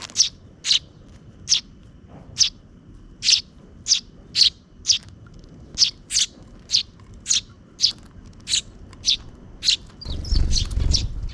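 Sparrows chirping: short, sharp, high chirps repeated about twice a second. Near the end a quick flurry of chirps comes with a low rumble.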